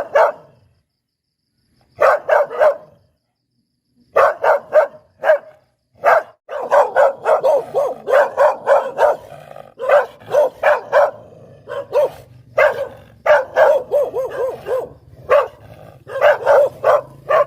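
Poodle barking in quick volleys of several sharp barks each. The first volleys are separated by short silences; from about six seconds in the barking runs almost without a break.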